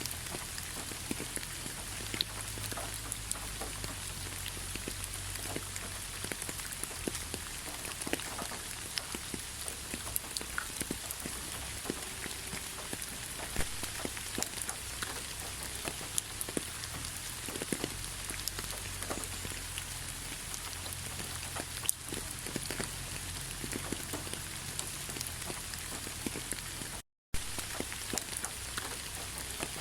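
Steady rain falling, with many separate drops ticking sharply on a surface over an even hiss. The sound cuts out for an instant near the end.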